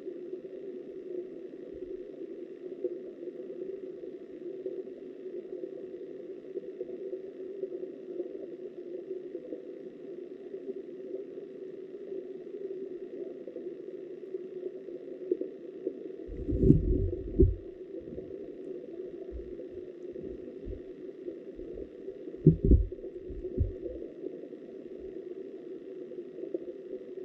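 Steady, muffled rush of flowing river water as heard by a camera underwater. Two clusters of short low thumps break in, one past the middle and another a few seconds later.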